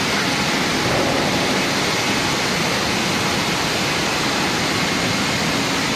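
Steady, even rushing noise, like moving air, with a faint low hum underneath.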